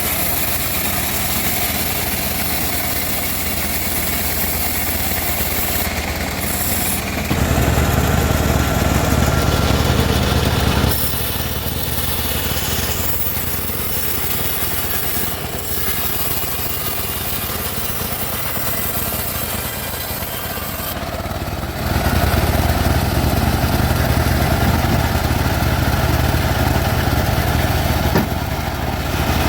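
Homemade band sawmill running and sawing teak, a steady machine drone that grows louder for a few seconds about a quarter of the way through and again over the last third.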